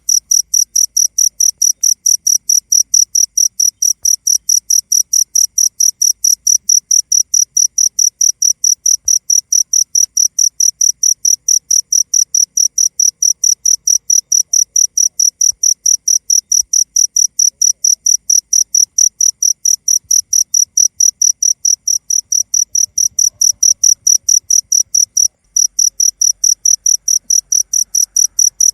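A cricket chirping in a steady, high-pitched pulsed rhythm of about four chirps a second, with one brief break near the end.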